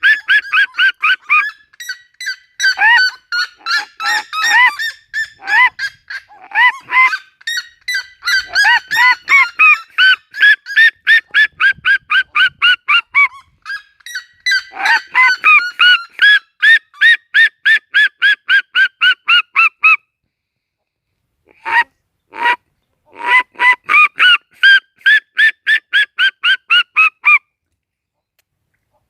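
Red-legged seriema giving its loud yelping call: rapid series of about three yelps a second, overlapping series in the first half, a short pause about two-thirds through, then one more series that stops shortly before the end.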